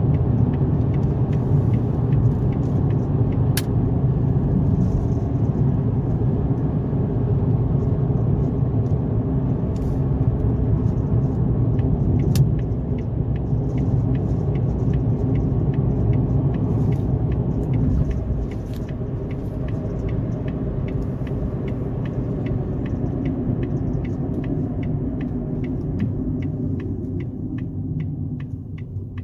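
Car driving: a steady low rumble of engine and tyres on the road, easing down in level a couple of times as the car slows. Faint, evenly spaced ticks run over it, clearer in the second half.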